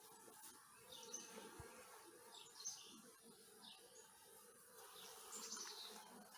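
Honeybees buzzing faintly and steadily around an open hive, with a few short high chirps scattered through.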